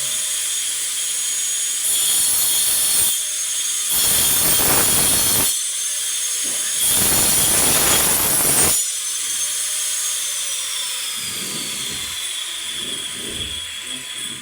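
Angle grinder with a cutting disc running with a steady high whine, biting into plywood in three short cutting passes. About ten seconds in it is switched off and its whine falls in pitch as the disc winds down.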